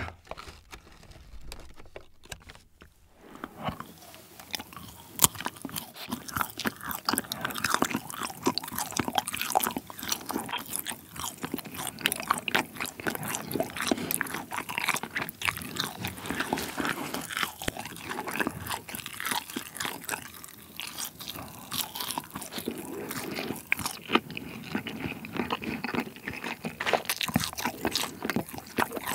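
Close-up mouth sounds of biting and chewing a strip of seasoned dried squid snack: dense, irregular clicks and crunches that start about three or four seconds in and keep going.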